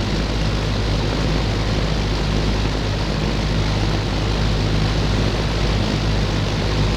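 Late-1970s Eagle Aire box fan with three metal blades running steadily on high: an even rush of air over a low motor hum. The motor is well lubricated.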